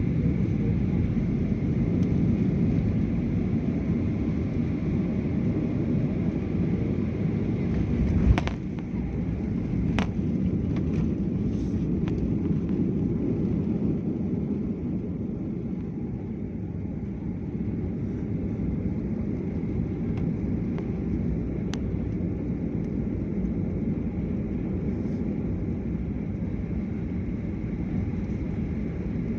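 Airliner cabin noise during landing: a steady low rumble of engines and airflow. One sharp thump comes about eight seconds in, followed by a few lighter clicks, and the rumble eases a little afterwards.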